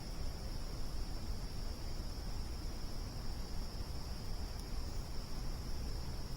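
Steady chorus of night insects, an unbroken high trill that holds level throughout, over a low, even rumble; a faint tick or two near the end.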